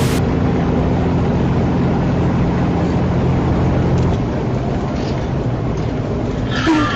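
Vehicle engine and road noise, running steadily; the engine's low hum fades about four seconds in, leaving a steady rush.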